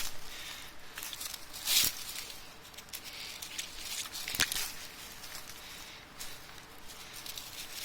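Dry plants rustling and crackling as they are walked through or handled, in irregular swishes and clicks, with a louder rustle about two seconds in and a sharp click about four and a half seconds in.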